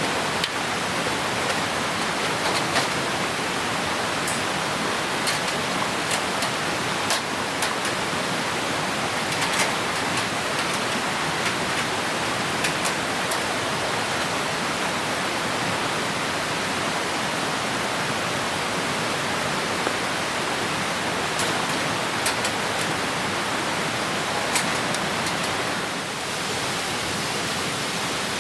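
Clear mountain stream rushing steadily, with scattered sharp crackles and pops from a wood campfire.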